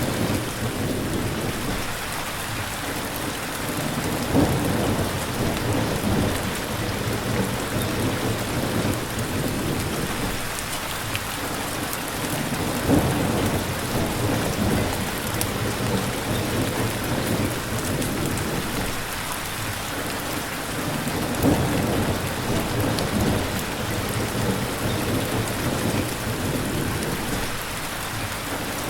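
Steady, heavy rain falling, with low rumbles of thunder that swell and fade every few seconds.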